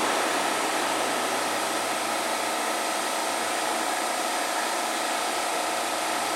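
Steady whirring hum of a Keihan 3000 series electric train standing at the platform, with a few steady tones held through it.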